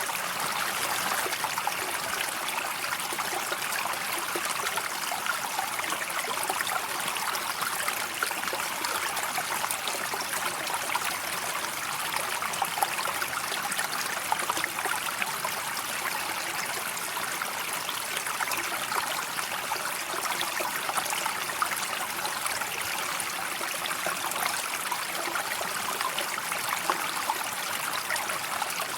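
River water flowing and trickling in a steady rush, with occasional small splashes.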